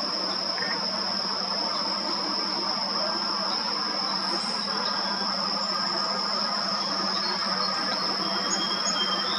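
Steady rushing outdoor noise with a constant high-pitched tone and a low hum under it, and a few faint short bird chirps near the end.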